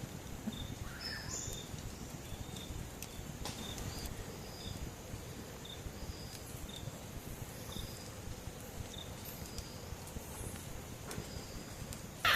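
Amazon rainforest ambience: a faint short high note repeating evenly, a bit more than once a second, over a low steady hiss, with a few faint clicks.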